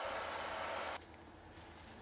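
A steady hiss at a railway station with a faint steady tone in it, cut off abruptly about a second in and replaced by the quieter low hum of a train carriage.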